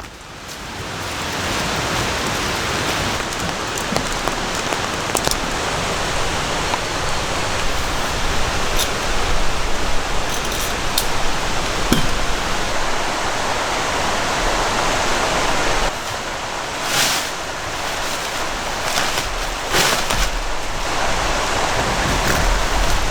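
Steady rain falling in a forest, a dense even hiss that fades in over the first two seconds, with scattered sharp drip clicks and a couple of brief louder surges in the last third.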